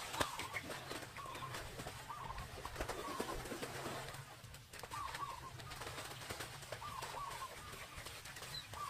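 Birds calling: short warbling calls repeated roughly once a second, with scattered sharp clicks in between.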